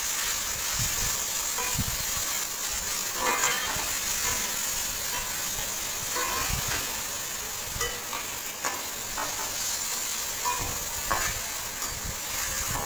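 Chopped tomatoes sizzling steadily in hot ghee in a metal kadhai. A spatula stirs them and scrapes and knocks against the pan every second or two.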